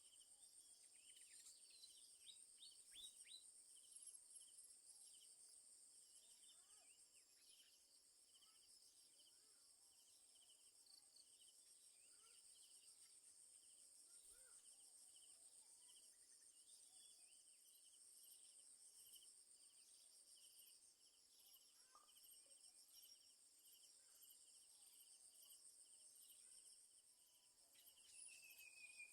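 Faint insect chorus: a steady high-pitched trill with a slower, regular pulsing beneath it, and a few scattered faint chirps.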